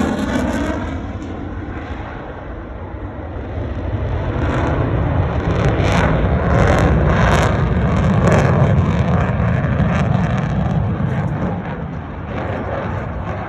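F-35 fighter jet's single F135 turbofan engine as the jet flies its display: loud, rough jet noise that dips about two seconds in, then builds again with crackling from about six to nine seconds and eases slightly near the end.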